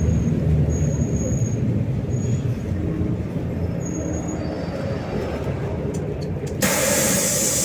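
Interior of a MAZ-215 city bus: a steady low engine and road rumble with a few short thin high squeals. About two-thirds of the way in, a sudden loud hiss of compressed air from the bus's pneumatic system begins and keeps going.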